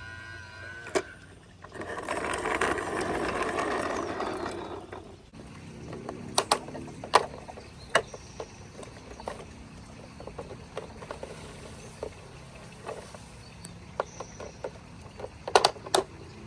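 Plastic clicks, knocks and rattling from a toy garbage truck being worked. A dense rattling rush lasts about three seconds early on, followed by scattered sharp clicks, with a cluster of them near the end.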